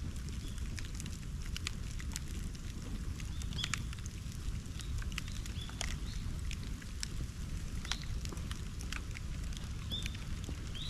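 Bonfire burning: a steady low rumble with scattered sharp crackles and snaps, and short high chirps every second or two.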